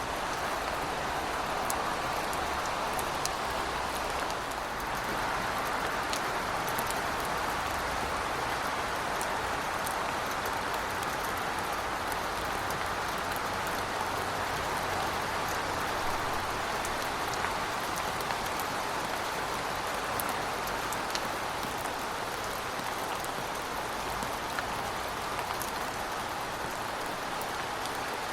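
Heavy rain falling steadily: a dense, even hiss with many scattered sharp drop ticks.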